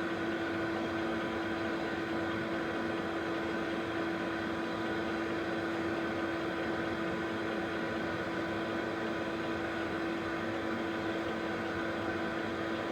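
Steady machine hum with one constant mid-pitched tone over an even hiss, unchanging throughout, like a small motor or fan running.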